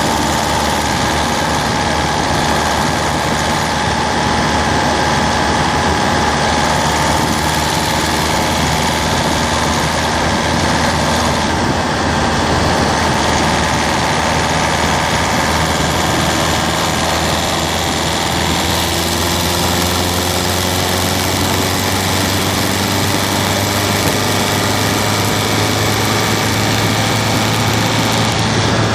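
Citroën C3's 1.4 HDi DV4TD four-cylinder turbodiesel engine running steadily, its pitch drifting slowly down and later slowly up as engine speed changes.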